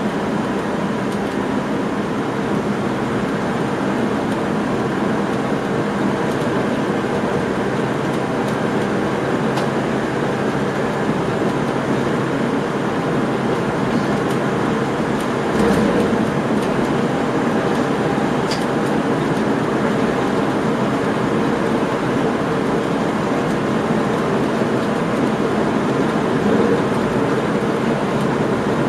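Steady running noise of a train heard inside the driver's cab: rolling rumble of wheels on rails with a low hum. A brief louder jolt comes about fifteen seconds in.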